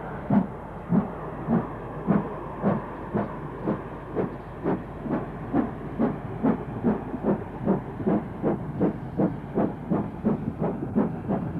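Steam locomotive working, its exhaust beats coming evenly at about two a second and quickening slightly over a steady hiss.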